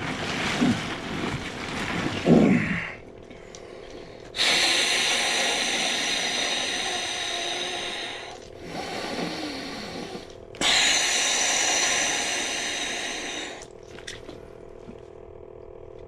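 A man sitting in an ice bath breathing hard against the cold. First come two short falling groans. Then come two long, forceful exhales, each starting suddenly and tailing off over a few seconds.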